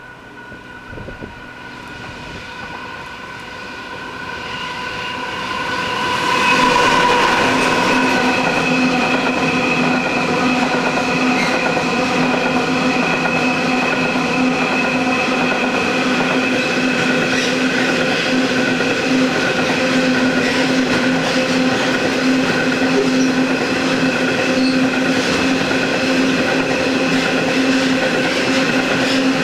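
A loaded stone train led by two NR class diesel-electric locomotives approaches, growing louder over about the first six seconds, then runs past steadily and loudly, with a sustained hum of several steady tones over wheel and wagon noise.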